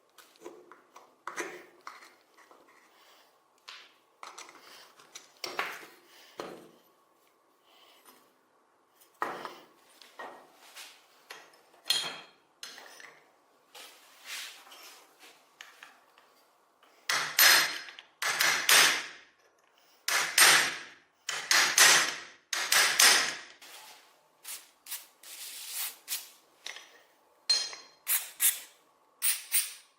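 Hand work on metal stove parts: irregular scraping and clinking strokes, each about half a second long, with a run of louder strokes a little past the middle.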